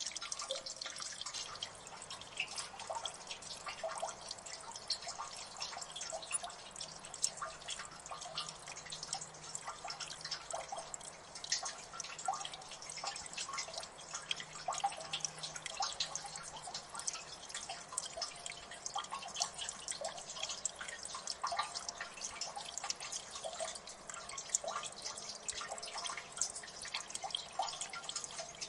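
Water dripping in a gully: many drops plinking irregularly and in quick succession, some ringing higher and brighter than others.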